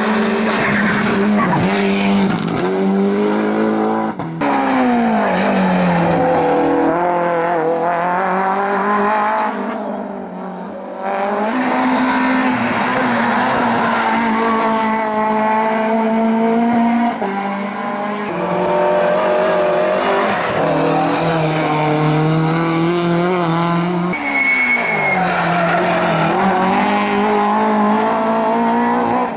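Race car engines at full throttle on a hillclimb, revving up and dropping back again and again through gear changes and corners, as the cars accelerate hard past.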